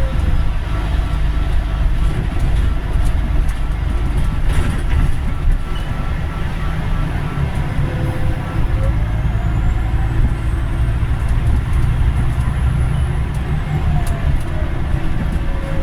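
Scania Omnidekka double-decker bus running under way: a steady low engine drone with a whine that climbs in pitch over several seconds and then falls near the end.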